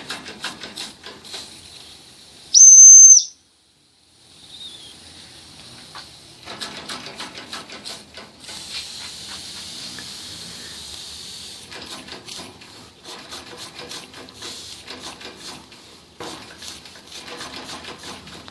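Weeden No. 14 toy live steam engine running, with rapid irregular ticking and a steady steam hiss. A short, loud, shrill whistle blast sounds about two and a half seconds in.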